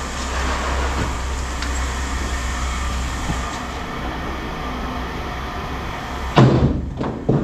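A vehicle engine idling with a steady low rumble. Near the end come two loud thumps, about a second apart.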